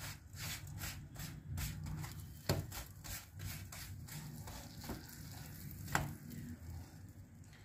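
Kulcha crisping in melted butter on a tawa: a faint sizzle, with the flatbread pressed and slid around on the pan by hand. A few short clicks come about two and a half, five and six seconds in.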